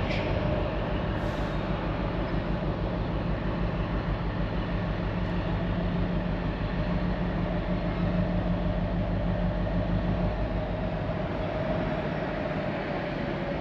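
A train running through the station with a steady mechanical drone. A low note drops out about ten seconds in and the sound eases off near the end.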